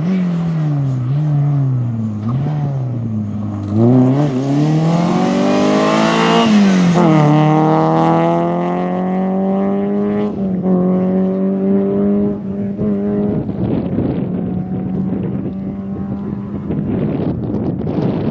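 Rally car engine at full push, the revs falling and rising several times, then climbing loudly as the car comes close and dropping sharply in pitch as it passes about six seconds in. It then holds a steady note as it moves away and fades under a rushing noise near the end.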